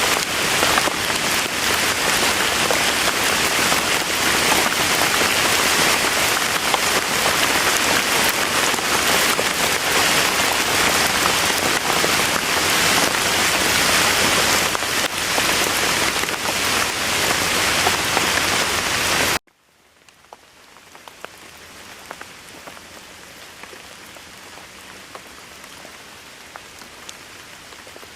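Steady heavy rain falling, which cuts off abruptly about two-thirds of the way through and gives way to much quieter, softer rain.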